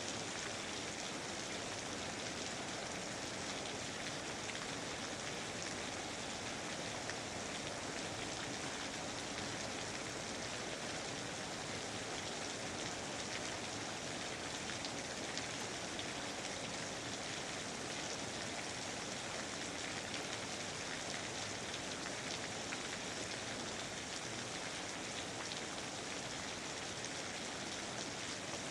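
Steady rain, a dense even patter of many drops, falling on foliage in a rainforest.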